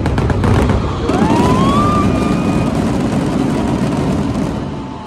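Aerial fireworks crackling and bursting in a dense, continuous barrage, with a few sharp bangs at the start. About a second in, a whistling tone glides up and holds steady for over a second.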